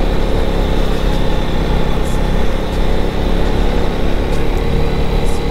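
KTM 250 Duke's single-cylinder engine running steadily while the motorcycle cruises at low speed, with no revving or gear changes.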